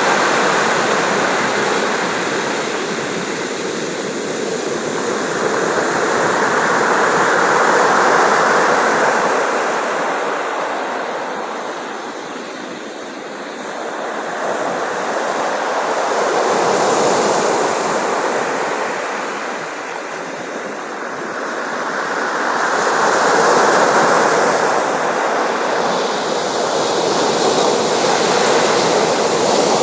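Sea surf: waves breaking and washing in one after another, the rushing swelling and ebbing about every eight seconds.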